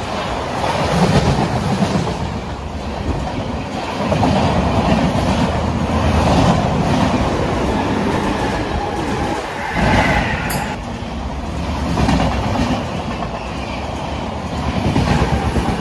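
Passenger trains running past a station platform at speed: a continuous rumble with the wheels clattering over the rail joints, swelling and easing in loudness. A brief higher-pitched sound comes about ten seconds in.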